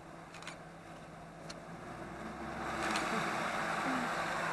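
Off-road vehicle's engine running with a steady low hum and a few light clicks; about two to three seconds in, a louder rushing noise swells up and holds.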